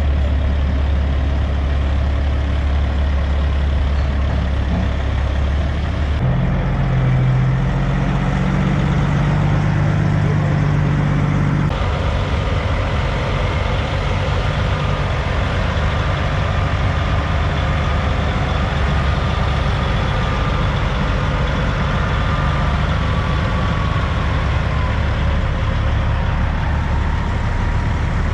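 Heavy diesel semi-truck engines running at low speed as the trucks pull in, a steady low rumble whose note changes abruptly twice, about six and twelve seconds in.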